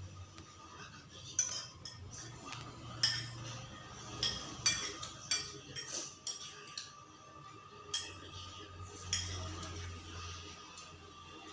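Spoon and other cutlery clinking against dishes while eating, in a dozen or so sharp, irregular clinks, with a clustered run in the middle.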